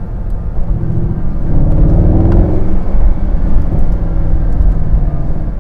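Mercedes-AMG SLS 63's 6.2-litre V8 engine in Sport Plus mode, pulling under throttle. The pitch rises about one and a half to two and a half seconds in, then the revs level off and it runs on steadily.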